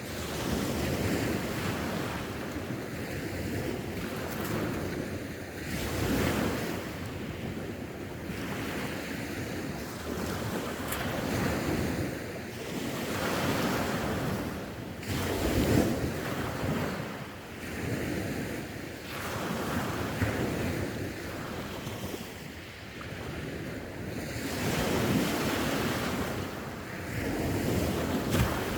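Sea waves breaking and washing on the shore, swelling and easing every few seconds, with wind buffeting the microphone.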